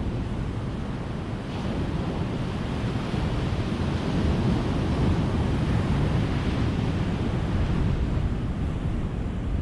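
Ocean surf: a wave breaks about a second and a half in and swells into a broad wash that eases off near the end.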